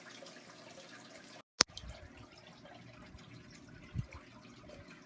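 Faint steady hiss, cut by a brief total dropout about a second and a half in, then a single sharp click. A short low thump follows at about four seconds.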